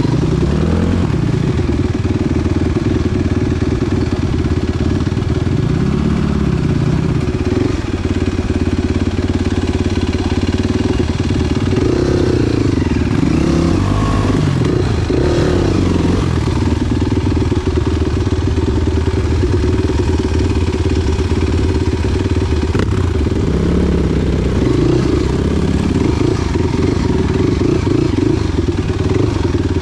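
Enduro motorcycle engine running under way, revving up and down repeatedly as the throttle is worked.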